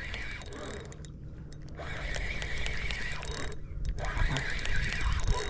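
Fishing reel giving a rapid clicking buzz in two stretches of about a second and a half each, as a big trout is played on the line, over a steady low rumble.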